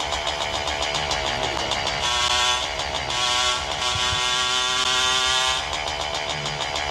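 Motorcycle engine running on the road in traffic, with a vehicle horn sounding twice: a short blast about two seconds in, then a longer one held for about two and a half seconds.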